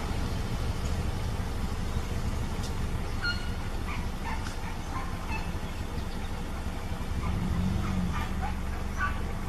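A vehicle engine running low and steady, with short high-pitched yelps scattered through the second half.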